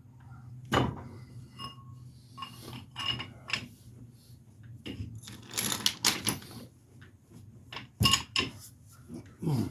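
Hand tools and metal car parts clinking and knocking against each other: a string of sharp metallic clanks, the loudest about a second in and again near the end, with a steady low hum underneath.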